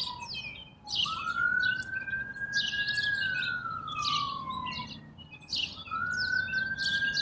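Several birds chirping and twittering continuously in rapid short phrases. Behind them a single clear tone slowly rises, holds and glides down, about twice.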